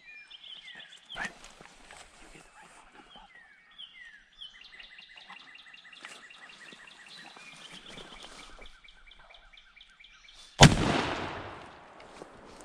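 Small birds chirping in repeated short calls, then, about ten and a half seconds in, a single loud gunshot that echoes and fades over more than a second: a hunter firing at a turkey.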